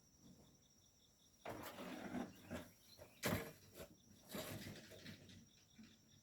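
Insects chirping in a quick even pulse. About one and a half seconds in, this gives way to a run of irregular scraping and crunching noises, with a sharp one about three seconds in.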